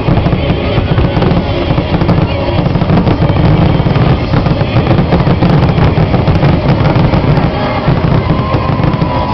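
Fireworks aerial shells bursting in rapid, near-continuous succession: a dense barrage of booms and crackle with no pause between them.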